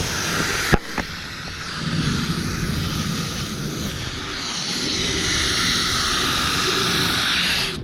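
Garden hose spray nozzle jetting water onto an air conditioner's condenser coils: a steady hiss of spray, with a sharp click about three-quarters of a second in. The spray cuts off suddenly near the end.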